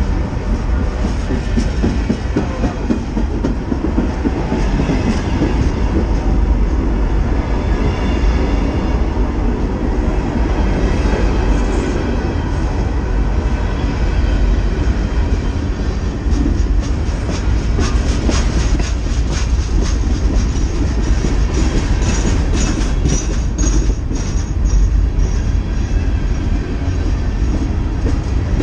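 Freight train cars rolling past close by: a steady rumble of steel wheels on the rails. From about halfway through, a run of sharp clicks of wheels over rail joints comes in.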